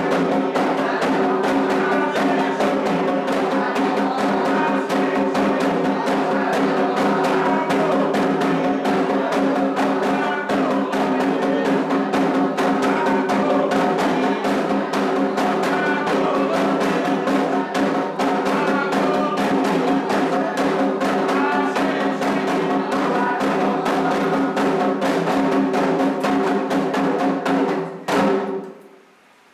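Candomblé ritual drumming on atabaques: a fast, dense rhythm with steady tones underneath, which cuts off suddenly near the end.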